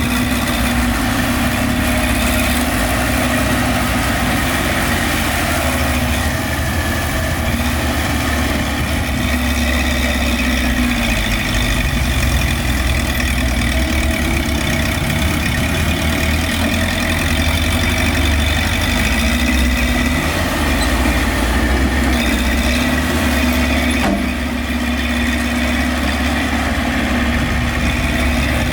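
Heavy diesel engines of dump trucks and a bulldozer running steadily, their pitch shifting slowly as they work.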